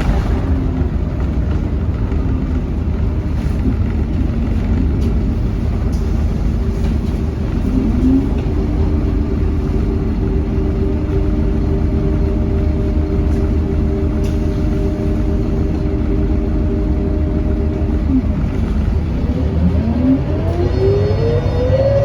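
Scania K230UB bus driving with its ZF automatic gearbox whining. The whine rises in pitch as the bus accelerates about eight seconds in, holds a steady pitch while cruising, and dips briefly near eighteen seconds. It then rises again as the bus picks up speed near the end.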